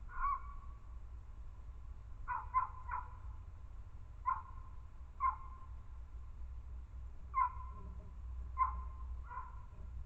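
An animal calling repeatedly: short, clipped calls that dip slightly in pitch, about nine in all, some single and some in quick runs of two or three, with gaps of a second or more between.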